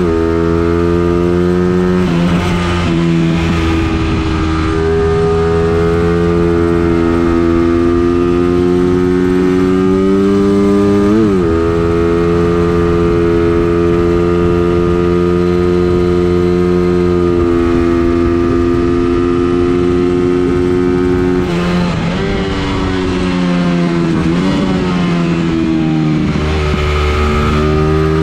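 Engine of a vehicle lapping a race circuit, running under load. Its pitch climbs slowly through long pulls and is broken by short sharp rev changes about two, eleven and twenty-two seconds in, then falls and climbs again near the end.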